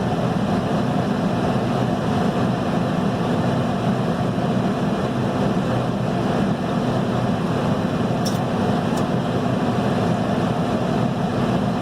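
Heavy diesel engine running steadily at an even speed, with two faint clicks about eight and nine seconds in.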